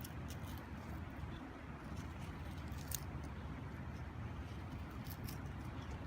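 Small wood fire crackling, with sharp pops near the start, just before three seconds and past five seconds, over a steady low rumble.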